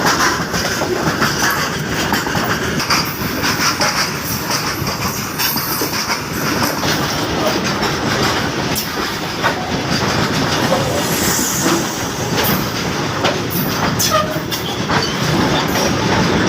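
A train running on the rails, with a steady loud rumble and wheels clacking over the rail joints.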